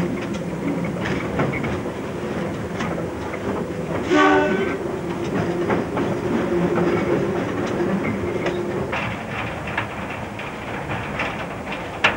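Freight train running on rails, its wagon wheels clicking over the rail joints, with a short locomotive horn blast about four seconds in.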